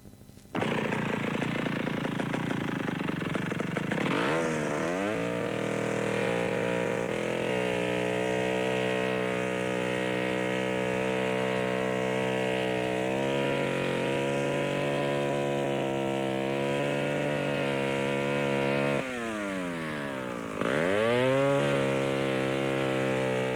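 Engine sound effect: a motor starts abruptly and runs with a steady, buzzing pitch that shifts up and down a few times. Near the end the pitch drops sharply and climbs back up, like the engine revving.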